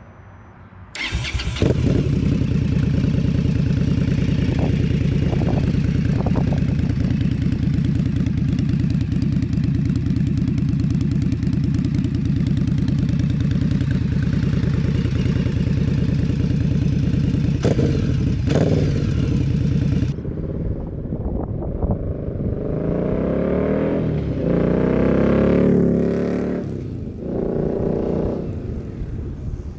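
2020 Indian Scout V-twin through Dean Speed Rampage slip-on exhausts with the baffles in: a steady, even running note for about twenty seconds. Then, after a sudden change, the engine revs rise again and again as the bike accelerates through the gears.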